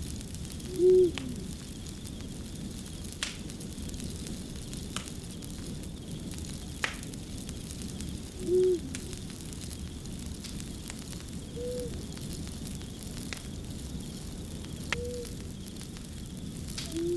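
Wood fire crackling steadily, with sharp separate pops every second or two. Four short low hoots come over it, two of them loud, about a second in and near the middle.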